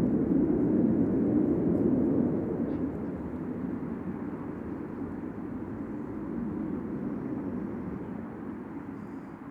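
Jet aircraft noise, a deep rushing rumble, loudest in the first two seconds and then fading steadily as the aircraft moves away.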